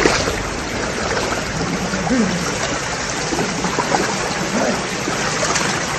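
Steady rush of river water, with a few faint short calls rising and falling in pitch over it.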